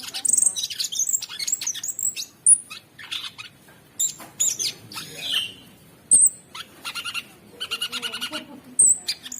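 Cucak sungkok songbird singing a fast, varied song of high chirps, sharp whistles and harsh buzzy trills, broken by short pauses.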